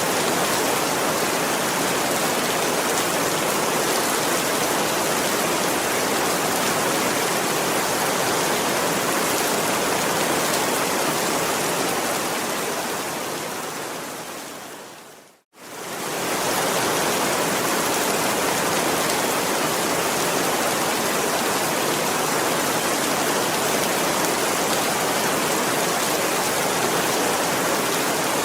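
Heavy rain falling steadily, a dense even hiss. About halfway through it fades away over a few seconds to silence, then comes straight back at full strength.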